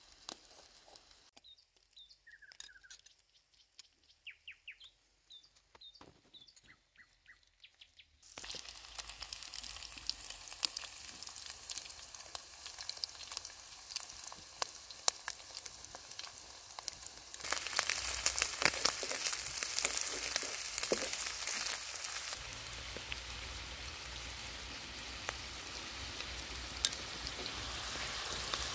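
Shrimp frying in a wide black wok over an open fire: a steady sizzle full of crackles starts suddenly about eight seconds in, and grows louder for a few seconds in the middle. Before it there are a few bird chirps and light clicks.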